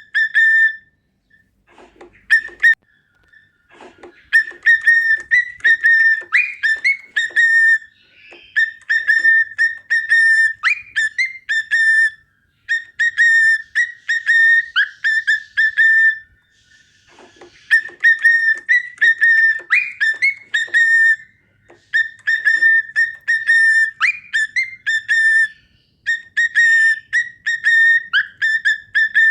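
Cockatiel whistling its song: phrases of quick, clear, repeated whistled notes at much the same pitch, some bending upward, with short pauses between phrases. Soft clicks are heard a few seconds in and again past the middle.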